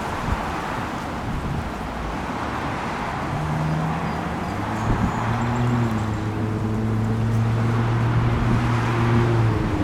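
Steady outdoor rush of wind or traffic noise, joined about three and a half seconds in by a low, steady engine hum that holds until just before the end.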